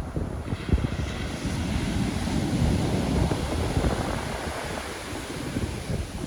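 Pacific Ocean surf: a wave breaks and washes up the shore, swelling about half a second in and fading toward the end, with wind buffeting the microphone throughout.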